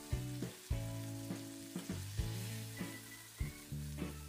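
Chicken thighs sizzling as they fry in shallow hot oil in a nonstick pan while they are turned over with metal tongs. Soft background music of short held notes plays along.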